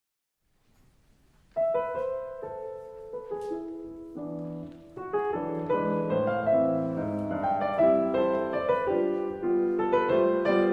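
Background piano music: after a second and a half of silence, single notes enter, growing to a fuller flow of notes about five seconds in.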